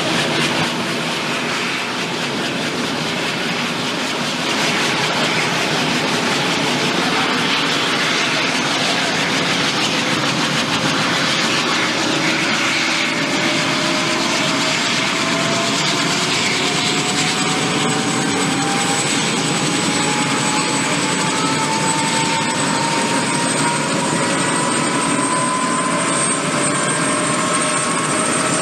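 Eurocopter AS365 Dauphin helicopter running: twin Turboméca Arriel turboshaft engines and rotors making a steady, loud noise, with a whine that climbs slowly in pitch.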